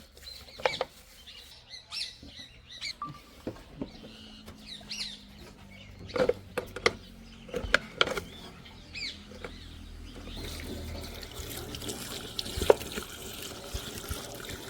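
Birds chirping, with scattered sharp clicks and knocks and a faint low hum underneath; about ten seconds in, a steady hiss comes up.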